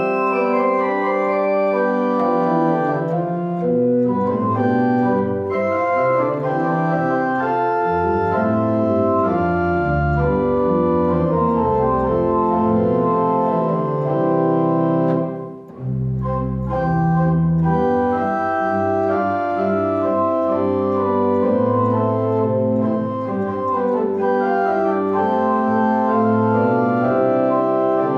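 Church organ playing held chords that move from one to the next over deep bass notes, with a brief break in the sound about halfway through.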